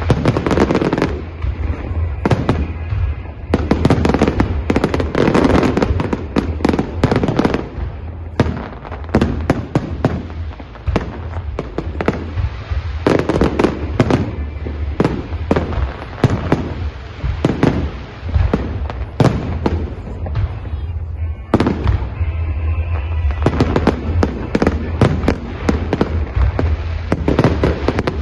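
Fireworks display: aerial shells bursting in quick, dense barrages of bangs and crackles, with a couple of brief thinner spells.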